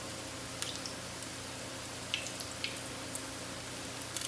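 Potato latkes frying in shallow oil in a cast-iron skillet: a steady sizzling hiss with a few scattered pops of spattering oil.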